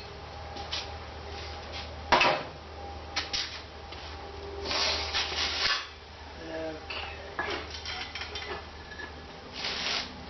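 Metal tools clanking and scraping over a steady low hum, with a sharp knock about two seconds in and a longer scrape around the middle.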